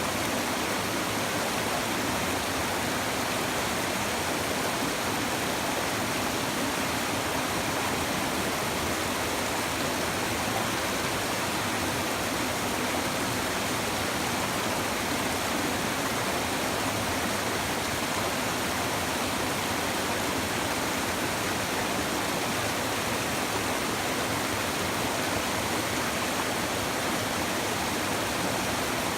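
A shallow river babbling steadily, an even rush of running water with no breaks or changes.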